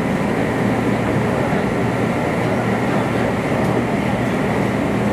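Steady running noise of a Meitetsu limited express train on the Nagoya Main Line, an even roar with no sudden events.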